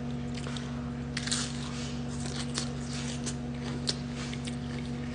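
Chewing a chicken quesadilla: irregular soft mouth smacks and clicks, over a steady low hum.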